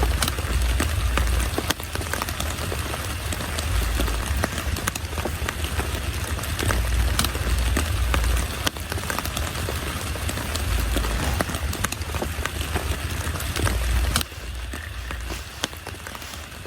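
Heavy rain falling, a dense hiss full of sharp individual drop hits over a low rumble; it turns abruptly quieter about fourteen seconds in.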